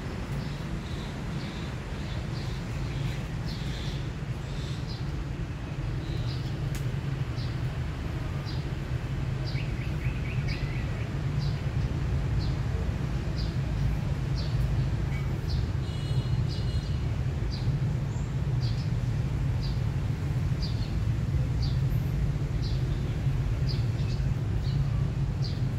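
A bird chirping over and over, short high notes about one to two a second, with a few different brief calls mixed in, over a steady low rumble of outdoor background noise.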